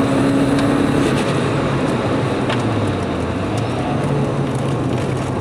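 Volvo S40 T4's turbocharged four-cylinder engine, fitted with a Holset turbo, heard from inside the cabin with tyre and wind noise as the car slows from about 120 to 95 km/h. The engine note and overall noise ease off gradually.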